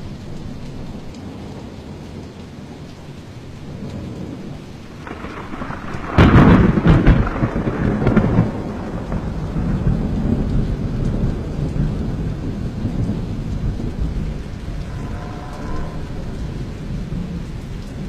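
Steady rain during a thunderstorm, with a thunderclap about six seconds in: a sudden sharp crack that rolls into rumbling for a couple of seconds and fades into lower rumbles.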